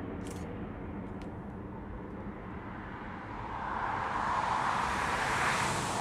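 Airbus A340-300's four CFM56 jet engines giving a steady low rumble, with a whooshing hiss that swells about three and a half seconds in and peaks near the end.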